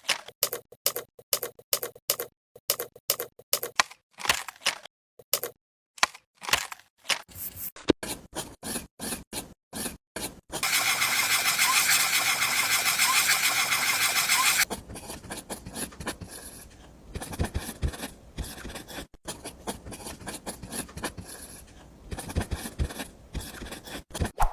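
Small hand tools and materials working on a miniature build: a run of quick taps and clicks, then a steady noisy sound for about four seconds in the middle, then lighter scraping and rubbing.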